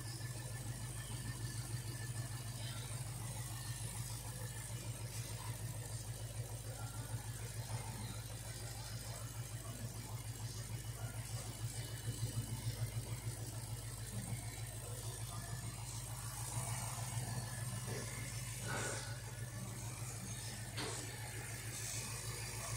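Ford Mustang 5.0-litre V8 engine idling steadily at an even, unchanging speed.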